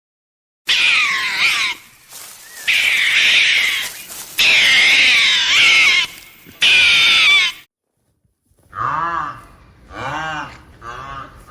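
Animal calls: a run of loud calls with wavering pitch, then after a short pause a series of shorter calls, each rising and falling in pitch, about one a second.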